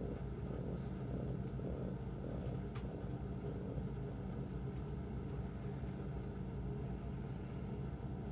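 Soft, low contented grunts, a person's imitation of a pigeon's contented grunt, repeating about twice a second over a steady low hum, with a single sharp click a little under three seconds in.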